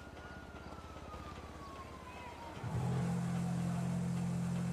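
A siren wailing, its pitch slowly falling and then starting to rise again. About two and a half seconds in, a loud steady low hum starts and becomes the loudest sound.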